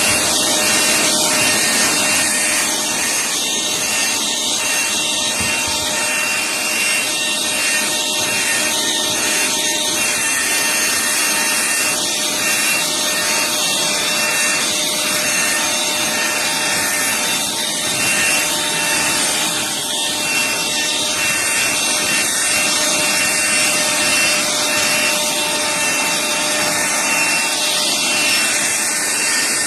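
BLACK+DECKER dustbuster cordless handheld vacuum running steadily: a loud rush of air with a thin motor whine over it, starting abruptly.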